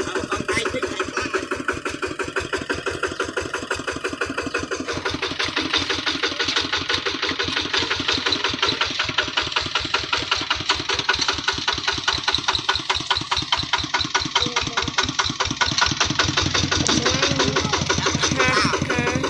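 Kubota hand tractor's single-cylinder diesel engine running with an even chug of about five or six beats a second. It gets louder and harsher about five seconds in, as it is given more throttle.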